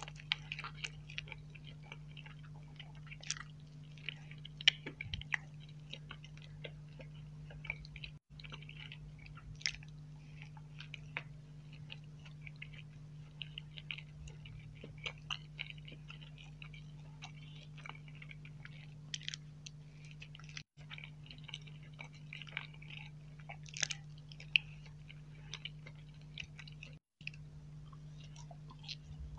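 Close-miked chewing and mouth sounds of eating soft frosted mini cupcakes, then nut nougat: wet smacks and many small sharp clicks over a steady low hum. The sound cuts out briefly three times.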